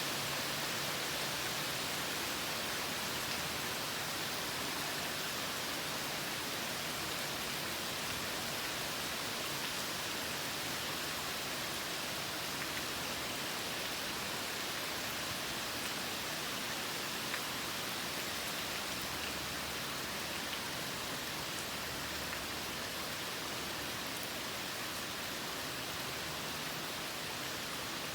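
Steady rainfall: an even hiss with a few faint drop ticks.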